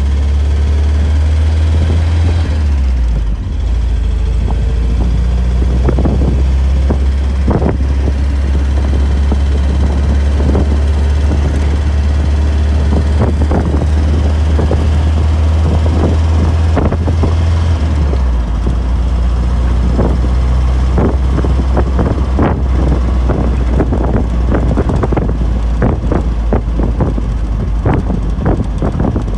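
1974 MGB's 1.8-litre four-cylinder engine running as the car is driven, a steady low drone whose pitch drops about two and a half seconds in and again near eighteen seconds. Scattered short thumps, like wind buffeting the microphone, sit over it.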